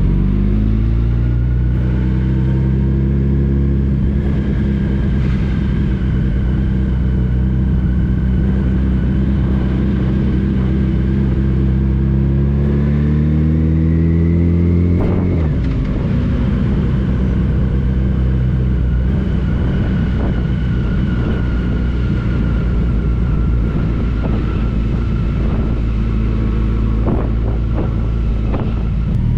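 Touring motorcycle's engine under way: it rises in pitch, holds, then climbs steadily for a few seconds before dropping sharply at a gear change about halfway through, and settles into a steady cruise.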